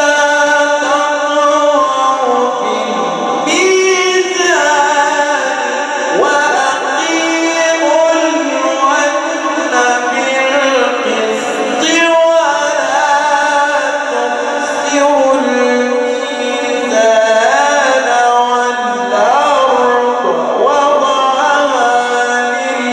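A man's voice reciting the Quran in the slow, melodic mujawwad style, holding long, ornamented notes in phrases of several seconds with brief pauses between them.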